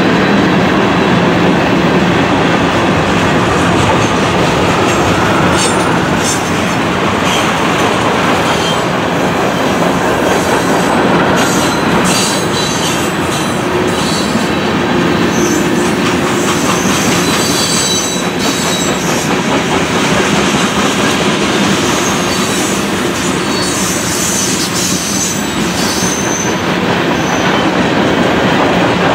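Freight cars (covered hoppers and tank cars) rolling past at close range: a steady, loud rumble of steel wheels on rail, with the clickety-clack of wheels over rail joints and thin high wheel squeals now and then, mostly in the second half.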